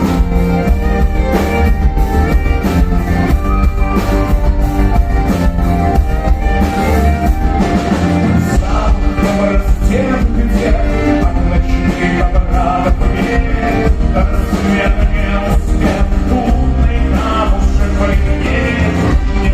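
Folk-rock band playing a song live and loud, with a steady drum beat and singing.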